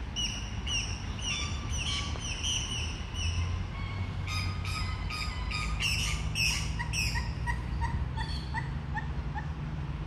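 Wild birds calling: quick, repeated, high falling chirps, then from about seven seconds in a run of short evenly spaced notes, about two a second. A low rumble sits underneath.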